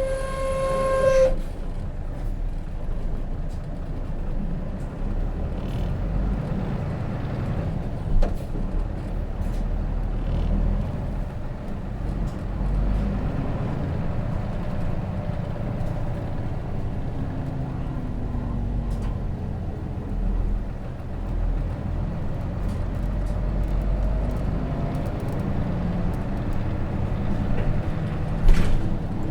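Interior running noise of a Hino Rainbow RJ city bus: its J08C straight-six diesel engine and road rumble, steady throughout. A held chime tone cuts off about a second in, and a sharp knock sounds near the end.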